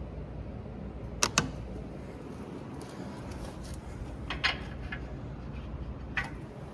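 A few short, sharp clicks or knocks over a steady low hum: two close together a little over a second in, a small cluster about two-thirds of the way through, and one more near the end.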